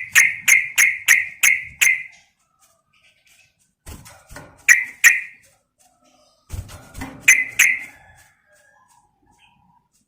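Yellow-vented bulbul (trucukan) calling: a rapid run of six sharp chirps in the first two seconds, then two shorter pairs of chirps, about five and seven and a half seconds in.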